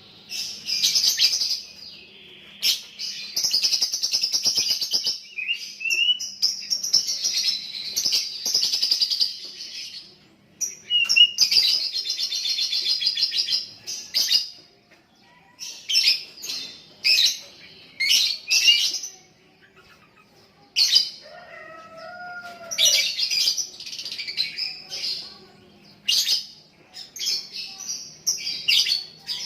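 Young lovebird chattering in long runs of rapid, shrill twittering, several seconds at a time, with shorter chirp bursts between. This is the extended 'ngekek' song that lovebird keepers prize.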